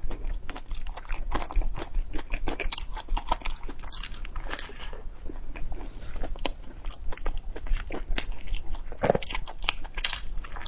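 Close-miked chewing and biting of crisp fried bread, a dense run of small crunching clicks, with one louder crunch about nine seconds in.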